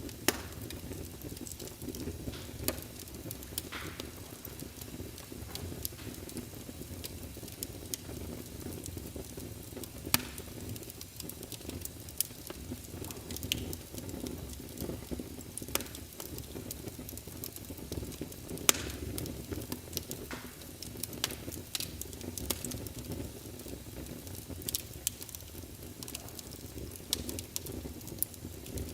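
Fire in a fireplace crackling: irregular sharp pops and snaps, a few of them much louder, over a steady low rumble of the flames.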